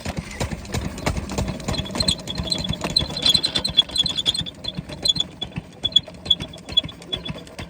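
Diesel water-pump engine running steadily with a fast, even knocking beat. A quick run of high ticks sounds over it for a few seconds in the middle.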